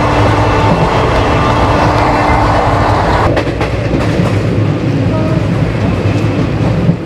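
Shaktipunj Express passenger coaches running on the rails: a loud, steady rumble and clatter of wheels on track. About three seconds in the high hiss drops away, leaving the low rumble.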